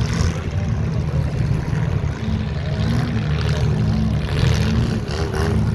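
Several compact demolition derby cars' engines running loudly together, with a repeating rise and fall in pitch as they rev. A voice is faintly heard near the end.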